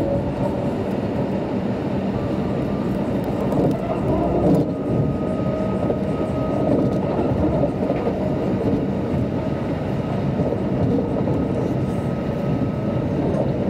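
Steady rumble of an electric intercity train, a Class 390 Pendolino, heard from inside the carriage as it pulls away and gathers speed. A faint motor whine comes in about four seconds in and rises slowly.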